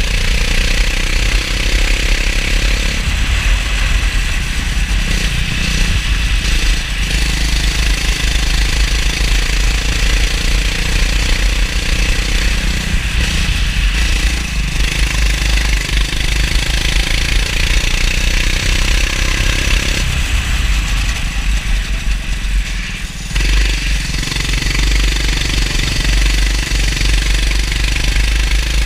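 Racing kart engine running at speed on a wet track, its pitch shifting up and down as the throttle opens and closes, over a heavy low rumble. The level drops briefly about three-quarters through.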